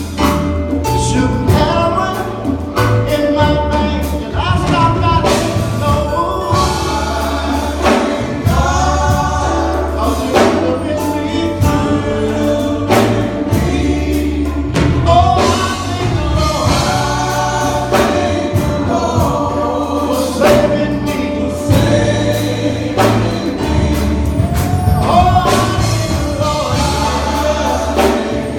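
Gospel choir singing over a band with bass and a steady beat.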